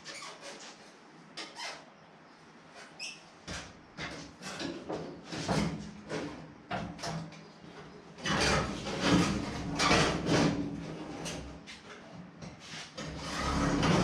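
Sheet-metal car body panels being handled and fitted: an irregular run of knocks, rubs and scrapes with a short squeak about three seconds in, getting busier and louder in the second half.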